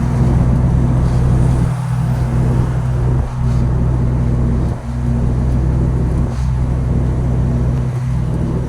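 Truck engine and road noise heard inside the cab while cruising: a loud, steady low drone that dips briefly about every second and a half.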